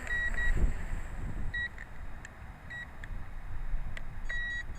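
Short electronic alert beeps, repeated several times with one longer beep near the end, from the drone's controls during an automatic return-to-home landing. Wind rumbles on the microphone underneath.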